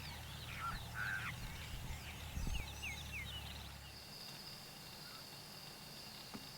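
Birds calling with short, quick falling whistles over a low steady hum, for roughly the first three seconds. The hum stops at about four seconds and a steady high-pitched drone carries on to the end.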